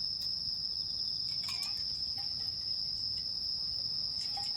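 Crickets chirring at night in one steady high-pitched trill, with a few faint crackles from a campfire.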